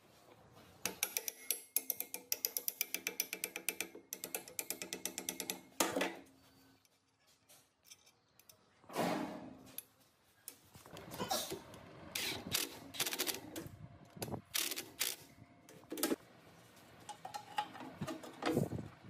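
Rapid, even mechanical clicking for about five seconds, like a ratchet or gear turning, followed by scattered metal knocks and scrapes from hands-on work on machine parts.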